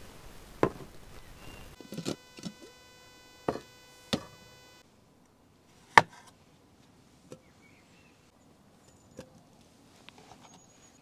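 A series of sharp knocks at irregular intervals, about seven in all, the loudest about six seconds in, like wood being struck or chopped.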